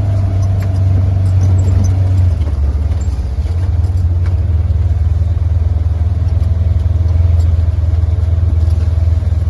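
Pickup truck engine running steadily at low speed, a deep drone that eases briefly about two and a half seconds in.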